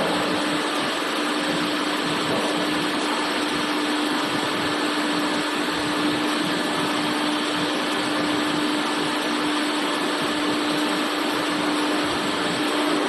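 Machinery running steadily: an even whirring noise with a constant low hum and no change in level.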